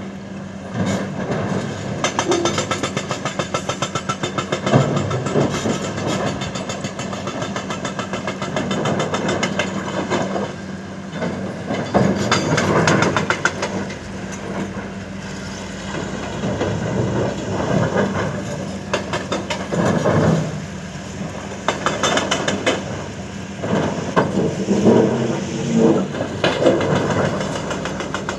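Engine of heavy earth-moving machinery running with a steady rapid throb, getting louder in several surges as it works.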